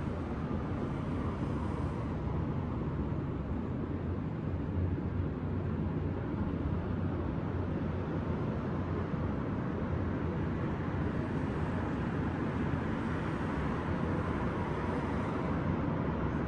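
Steady low rumble of distant city traffic, with no single vehicle standing out.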